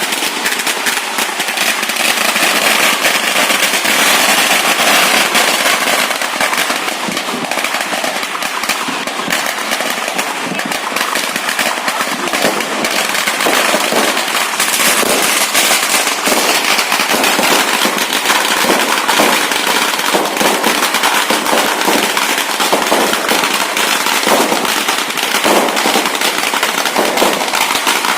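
Fireworks going off in a dense, continuous crackle of rapid bangs and pops, with no let-up.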